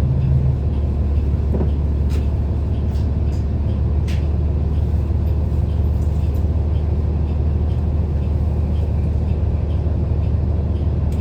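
City bus running, heard from inside the passenger cabin: a steady low engine and road rumble, with a few light rattles or clicks about two and four seconds in.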